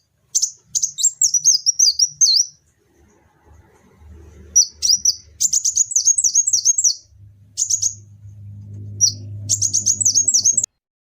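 A songbird singing phrases of quick, high, down-slurred chirps, about four or five a second, with short pauses between phrases. A low hum runs under the second half, and the sound cuts off abruptly near the end.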